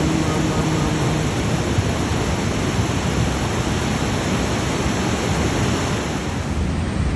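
Floodwater of a creek swollen by a flash flood, rushing in a steady, loud, unbroken roar of water.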